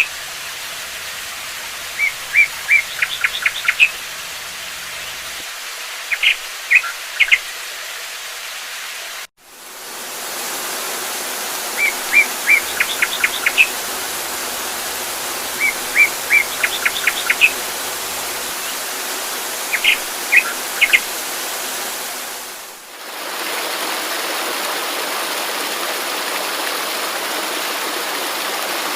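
A songbird repeating a short phrase of a few chirped notes followed by a quick run of notes, every couple of seconds, over the steady rush of running water. The bird stops about two-thirds of the way through, leaving only the water.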